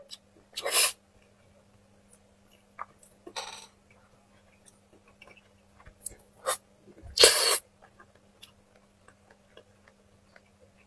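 Close-miked eating sounds: chewing and wet mouth noises, broken by a few short, louder noisy bursts, the longest and loudest a little past the middle. A faint steady low hum runs underneath.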